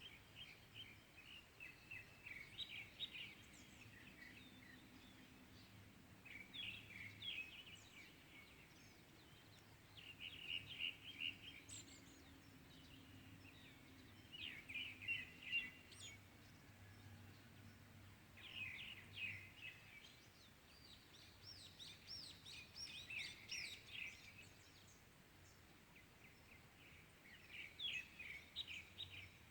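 Faint morning birdsong: short phrases of quick chirping notes repeated every three to four seconds, with a longer, busier burst of song a little past the middle.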